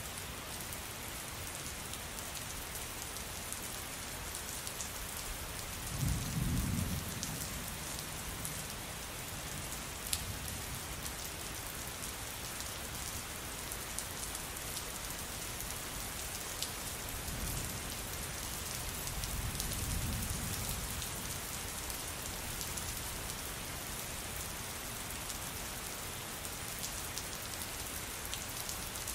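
Steady rain falling, with low rolls of thunder about six seconds in and again about two-thirds of the way through.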